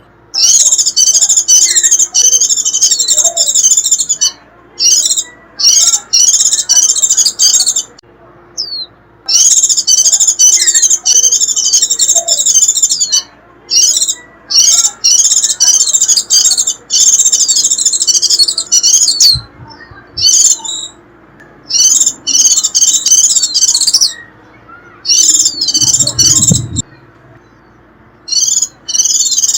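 White-eye singing its high, rapid twittering 'rít' song in loud phrases of a few seconds each, separated by short pauses. This is the kind of call played to lure wild white-eyes in.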